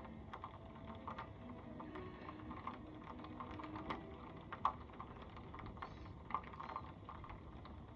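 Irregular light taps of raindrops striking the window glass and frame, with a few louder ticks in the second half.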